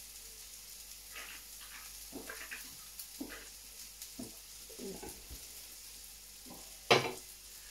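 Stir-fry sizzling steadily in a hot wok, with a man gulping a drink from a can several times and one sharp knock near the end.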